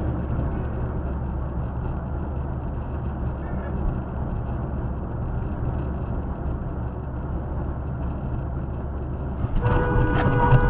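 Steady road and engine rumble from a moving car. Near the end a car horn starts and is held, with a few sharp clicks around its start.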